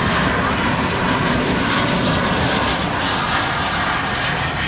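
Airplane engines running loud and steady as an aircraft passes, a dense rush with a faint high whine that slides slightly lower partway through.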